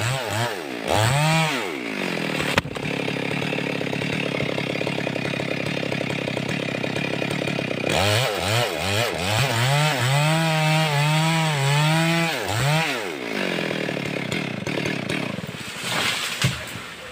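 Two-stroke chainsaw revving up and down, then running steadily for several seconds as it cuts into a log, revving hard again, and dropping back toward idle near the end. A single sharp click comes about two and a half seconds in.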